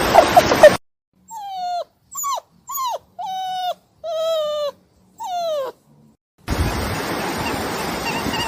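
A puppy whimpering: six short, high whines over silence, each sliding down in pitch at its end. A steady rushing noise cuts off just before the whines and starts again about six and a half seconds in.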